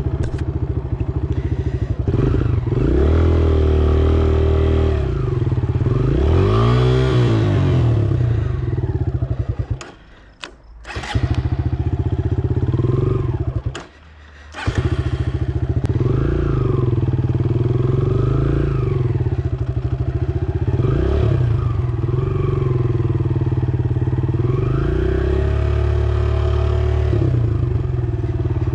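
Dirt bike engine revving hard and easing off as it is ridden around a motocross track, its pitch rising and falling with throttle and gear changes. Twice the sound drops away almost completely for about a second, near ten and again near fourteen seconds in.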